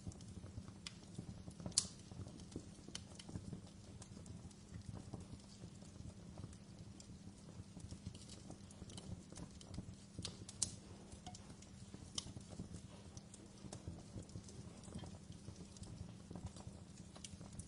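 Wood fire in a fireplace crackling, with irregular snaps and pops over a low steady rumble. Two louder pops stand out, one about two seconds in and another a little past the middle.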